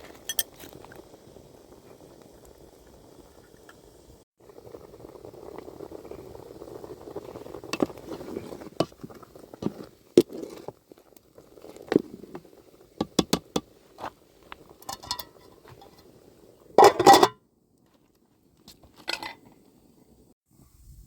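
Cooking utensils clinking and knocking against pots and dishes: scattered sharp clicks, with one louder clatter near the end, over a low steady background noise.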